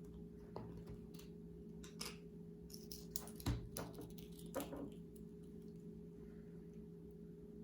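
Faint clicks and taps of a spoon and toppings being handled on a cutting board, a few scattered strokes, over a steady low electrical hum.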